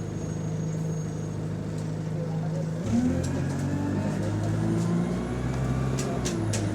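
City bus engine, heard from inside the bus, idling steadily, then revving up about three seconds in as the bus pulls away, with a whine that rises in pitch as it gathers speed. A few sharp clicks or rattles near the end.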